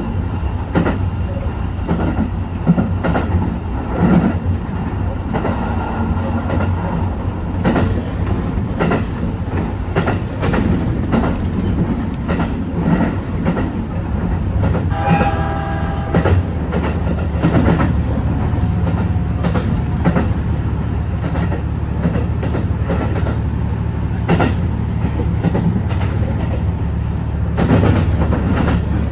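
HB-E210 series hybrid diesel train running along the line: a steady low rumble with irregular clacks of the wheels over rail joints. A brief pitched tone sounds about halfway through.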